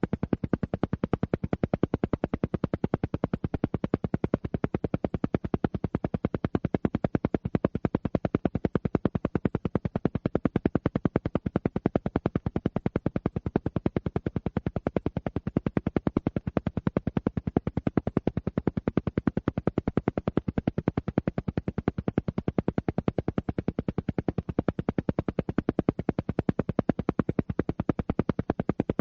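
Alpha-wave brainwave-entrainment track: a steady train of rapid, evenly spaced sharp pulses, many a second, repeating without change.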